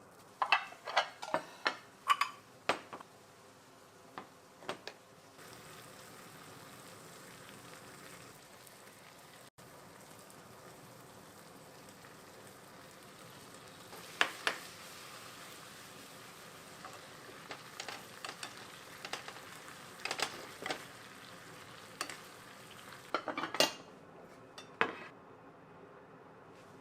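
Sharp clinks of a utensil against a pan or dish, then food sizzling steadily in a frying pan from about five seconds in, with scattered taps and scrapes of a utensil stirring it. The sizzle stops a few seconds before the end, followed by a few more clinks.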